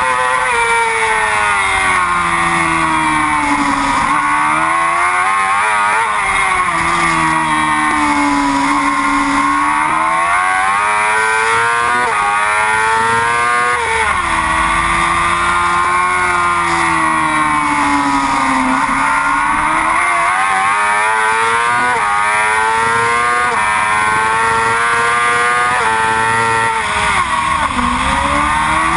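Yamaha R6 race bike's inline-four engine at high revs, climbing through the gears and falling off into corners, with quick blips on downshifts, over and over through a lap. Wind noise runs along with it.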